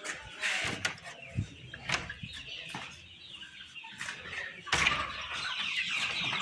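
Scattered knocks and clatter, then from about three-quarters of the way in a flock of Sasso chickens clucking and chirping together, growing busier toward the end.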